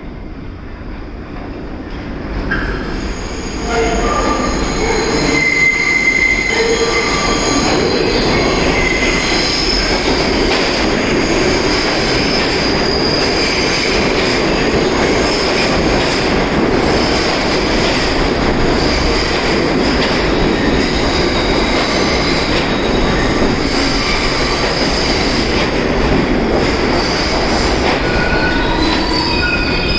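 New York City subway train running with its wheels squealing on the rails: several high squealing tones over the steady rumble of the cars. It swells about three seconds in and stays loud.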